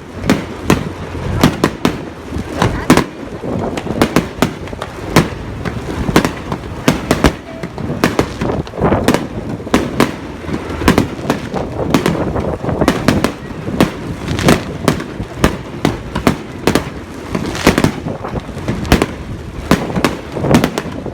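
Fireworks going off, a rapid irregular volley of bangs, several a second, with crackling between them.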